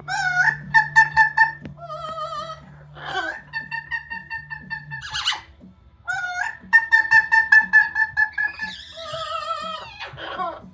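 Amazon parrot calling loudly: runs of fast, evenly pulsed notes on a steady pitch, broken by wavering tones and short harsh squawks.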